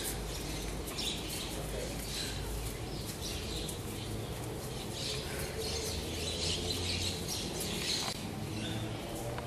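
Small birds chirping on and off, over faint voices and a low steady hum.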